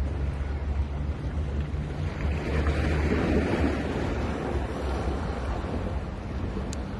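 Sea waves on a beach: one wave breaks and washes in, swelling and fading about two to four seconds in, over a steady low rumble of wind on the microphone.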